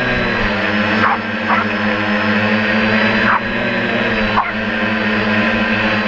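DJI F450 quadcopter's four motors and propellers whirring steadily in flight, with a few short yips from a small dog chasing it.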